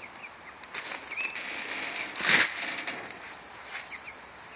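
A bird moving and flapping in tree branches, a rustling swell loudest a little past the middle, with a few faint short chirps.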